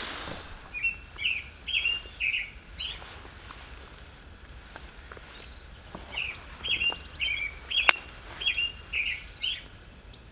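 A songbird singing two runs of quick, repeated chirping notes, one about a second in and one from about six seconds in. A single sharp snap near the end is the loudest sound.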